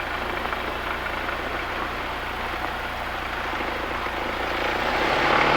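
Cessna 172's piston engine and propeller running, heard from inside the cabin, growing louder over the last second or two as power is brought up for the takeoff roll.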